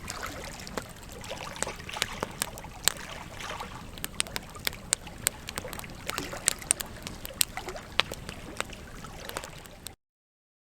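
Campfire logs burning: irregular sharp crackles and pops over a soft hiss of flames. The sound cuts off suddenly near the end.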